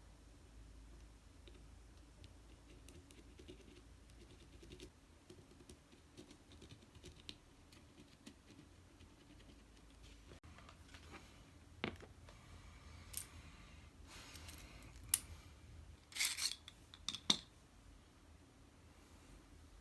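Small hand-tool clicks and scratches of craft work, faint at first, then several sharp snaps or snips in the second half, the loudest about fifteen seconds in.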